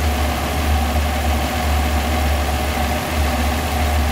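Car engine idling with a strong, steady low vibration, the noisy vibration that indicates worn engine mounts or a failing spark plug.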